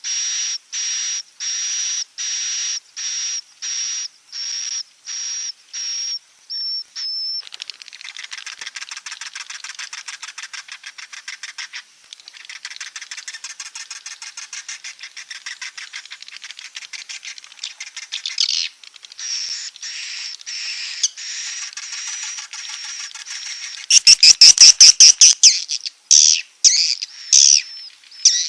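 Swiftlet calls played as a roosting lure for a swiftlet house: a steady run of high chirps about two a second, then dense fast twittering, with a loud rapid burst of chirps near the end.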